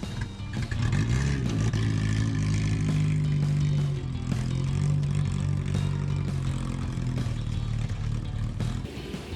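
Car engine running, revving up and back down once about a second in, then holding a steady speed.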